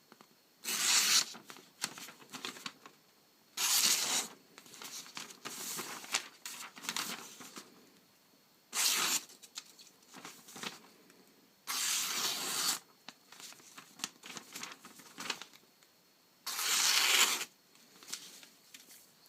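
Freshly sharpened carbon-steel Opinel No. 8 blade slicing through a sheet of paper in a sharpness test: five separate cuts, each a short rasping slice, with the paper rustling and crinkling in between.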